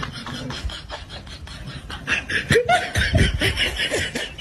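A person laughing in short bursts, getting louder about two seconds in, with scattered clicks earlier.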